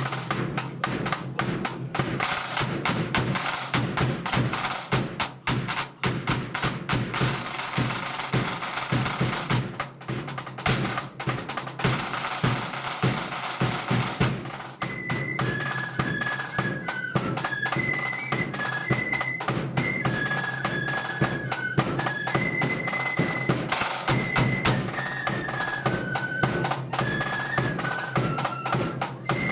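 Flute band's drum corps playing snare drum rolls and bass drum beats. About halfway through, the flutes come in with a high melody over the drums.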